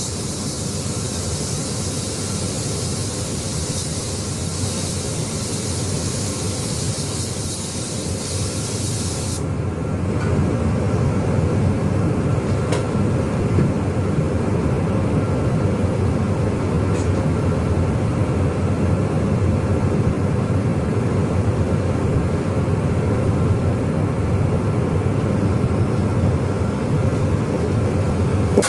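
Spray painting: a steady hiss of paint spraying that cuts off about nine seconds in, over a steady low mechanical rumble that carries on and grows a little louder after the spraying stops.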